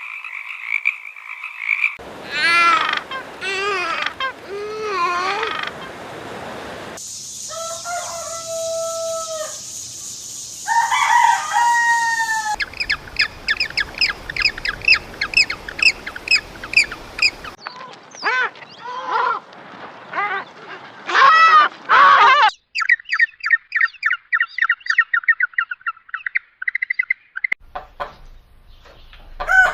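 A run of short animal-call clips, changing abruptly about every five seconds: rising and falling pitched calls, rapid series of chirps, and a fast trill.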